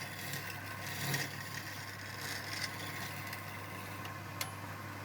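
A power tool's motor running steadily, with a rough scraping, grinding noise of work over it and a single sharp click about four and a half seconds in.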